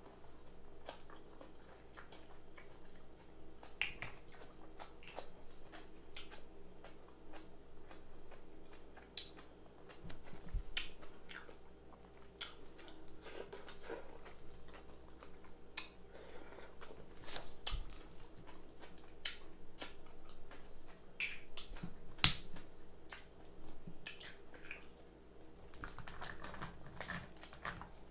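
Close-miked eating of crab legs: chewing, lip-smacking and slurping, with many irregular small clicks and crackles and one louder sharp click about 22 seconds in.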